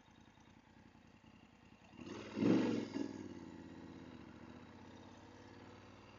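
A motorcycle engine revs up sharply about two seconds in, with a second smaller rev just after, then settles back to a lower, steady running sound.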